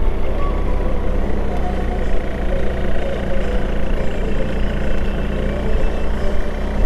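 Motorcycle engine running steadily while riding, with heavy low rumble of wind and road noise.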